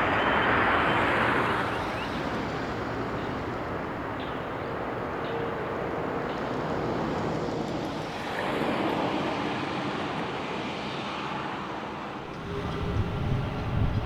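Jet airliner engine noise, a steady broad rush that is loudest in the first couple of seconds, swells again about nine seconds in, and gains a low rumble near the end.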